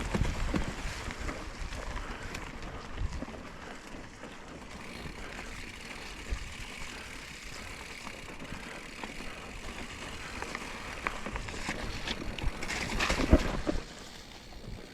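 Mountain bike riding over a wet, rocky trail: tyres rolling and the bike rattling with scattered knocks over the rocks, with wind noise on the microphone. A louder run of knocks and rattling comes near the end.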